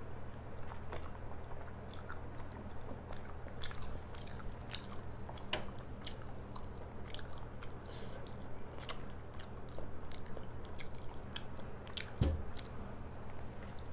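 Close-miked chewing and mouth sounds of someone eating soft flatbread and curry, full of small wet clicks and crackles, over a steady low hum. A single dull thump about twelve seconds in.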